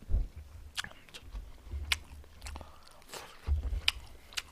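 A man chewing food close to a headset microphone, with irregular wet smacking clicks from his mouth.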